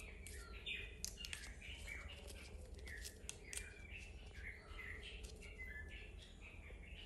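Small birds chirping again and again, short high chirps several times a second, with scattered light clicks and taps among them.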